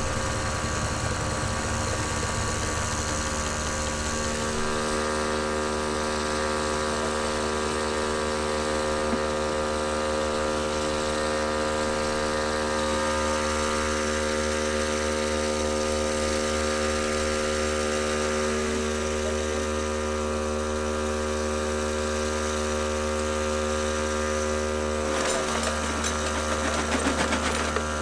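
Machinery running steadily, a continuous hum made of several held tones at an unchanging pitch. About four to five seconds in, the low rumble drops away and the tones shift. A few light rattles come near the end.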